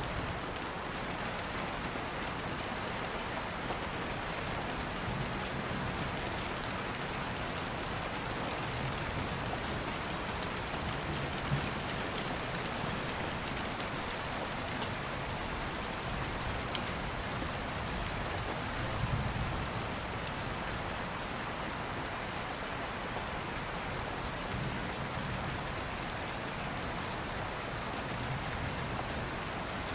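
Steady rain falling, with soft low rumbles swelling up every several seconds and an occasional single sharp click.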